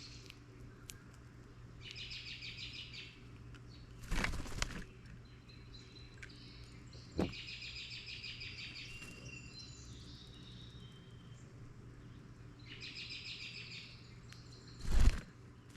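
A songbird repeating a fast, high trill about a second long, three times about five seconds apart. Two short, loud noisy bursts break in, about four seconds in and near the end, the second the loudest, over a steady low hum.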